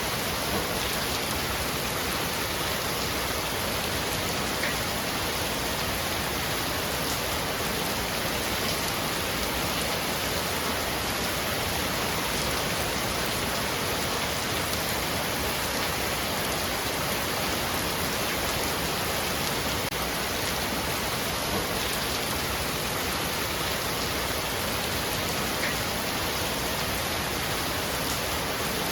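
Heavy rain falling steadily on a roof, an even patter with no thunder.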